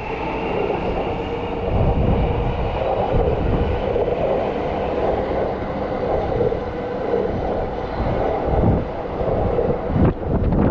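Electric trains running on the tracks: a steady rumble with a faint held whine.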